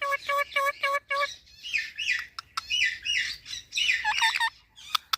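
Parrots calling: a quick run of short, repeated pitched notes, about five a second, then a jumble of chirps and squawks sliding down in pitch, with a few sharp clicks near the end.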